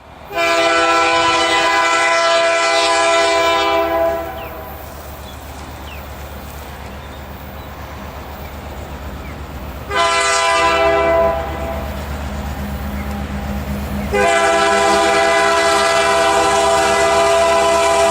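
Ontario Northland diesel locomotive sounding its multi-chime air horn: a long blast, a short blast about ten seconds in, then another long blast starting about fourteen seconds in that is still going at the end. Under and between the blasts the locomotive's diesel engine rumbles steadily.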